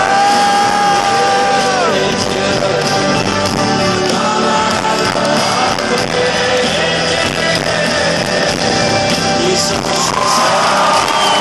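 Rock band playing live in a large arena: loud, full band sound with a long sustained lead melody whose held notes bend and slide in pitch, over a steady backing.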